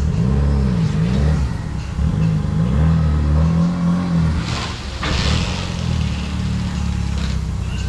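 Daihatsu Copen's small 660cc turbo engine revving up and down several times in quick succession, then settling to a steadier note, with a short hiss about five seconds in.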